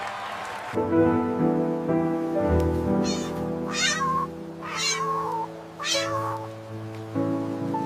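Three short, high-pitched cat meows about a second apart, near the middle, over steady background music.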